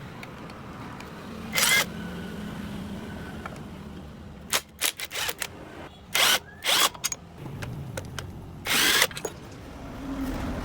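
A power tool run in about seven short, loud bursts, each a fraction of a second long, over a low background hum, as in unbolting engine parts during a teardown.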